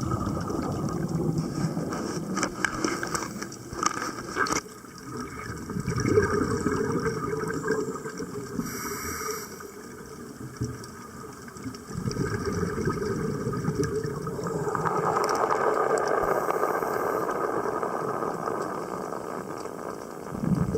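Underwater bubbling and gurgling of released scuba air, coming in irregular surges.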